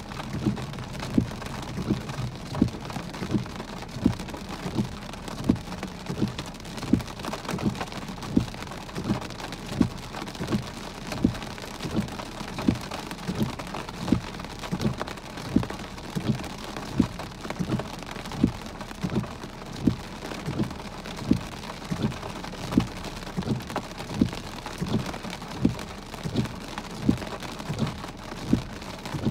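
Heavy rain falling on a car, heard from inside the cabin: a steady hiss of rain with big drops landing as sharp thuds about one to two times a second.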